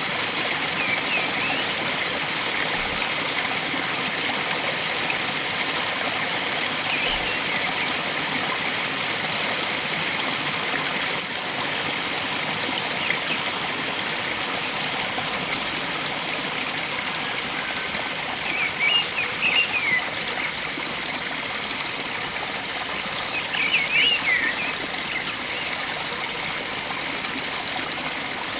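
Steady rush of flowing water, with short bird chirps now and then, in small bunches about two-thirds of the way in and near the end.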